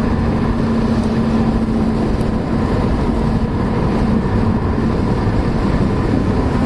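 Steady road and engine noise of a moving car heard from inside the cabin, with a steady hum that fades out near the end.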